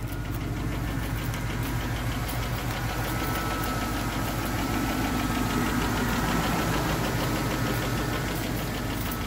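A 1977 Jeep Cherokee Chief's engine idling steadily. A faint high whistle comes in about two seconds in and fades near the end. The engine has a vacuum leak, which the owner puts down to worn heater hoses.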